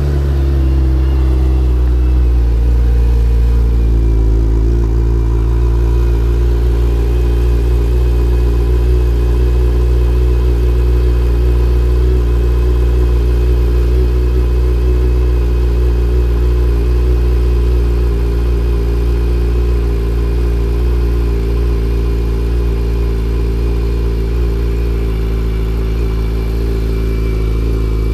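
Suzuki Hayabusa third-generation 1340 cc inline-four idling steadily on its stock exhaust, just after a cold start.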